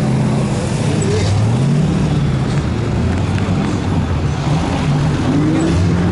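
Muscle car V8 engines revving, the pitch rising and falling in slow sweeps, with a rise about two seconds in and another near the end.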